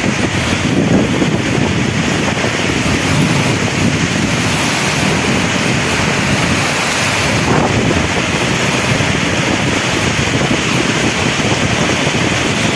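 Heavy rain and strong wind of a rainstorm, a loud steady rush with wind buffeting the microphone.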